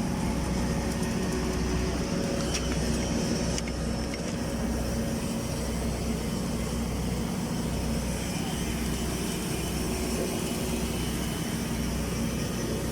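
Automatic girth welder laying a flux-covered fill pass: a steady electrical and mechanical hum from the welding power and travel carriage, running evenly with no breaks.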